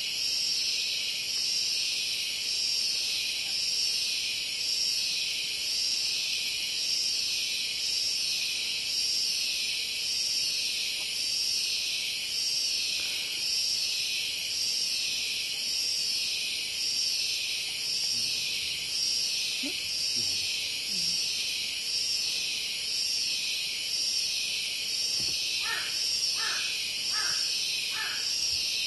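A steady, high insect chorus that swells and fades about once a second. Near the end come four short calls in quick succession.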